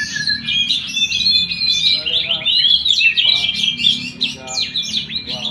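Oriental magpie-robin (kacer) singing a fast, varied song of chirps and whistles, with a few harsher, lower notes in the middle.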